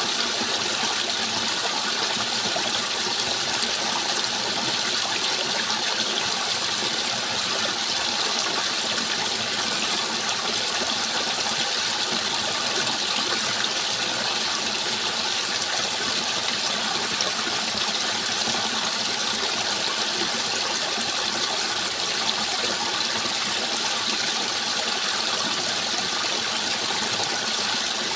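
Running water rushing steadily, an even noise with no breaks or changes.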